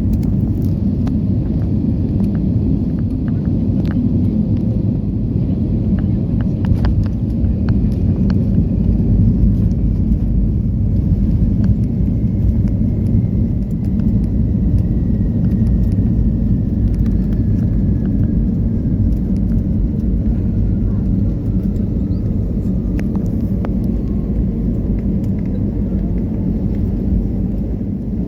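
Cabin noise inside an Airbus A320neo airliner: a loud, steady low rumble with scattered light rattles. A faint whine falls slowly in pitch through the middle and later part.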